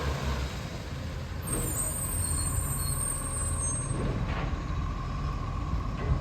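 Garbage truck engine running steadily, with a short hiss of air high up from about one and a half seconds in, lasting about a second.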